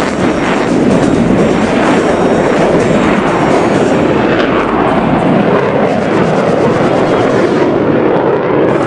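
Blue Angels jets flying past, their jet engine noise loud and steady.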